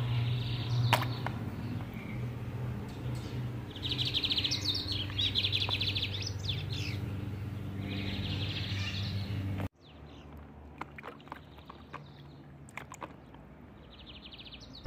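Small birds chirping in repeated short, fast trills, over a steady low hum, with a few faint clicks. The background drops away abruptly about ten seconds in, and the trills go on faintly after that.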